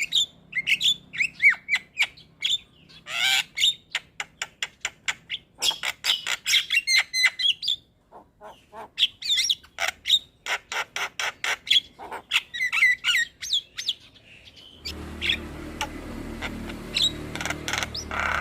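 Javan myna rapidly calling and singing, a dense run of chirps, whistles and harsh squawks with a short lull about eight seconds in. A low steady hum joins underneath about fifteen seconds in.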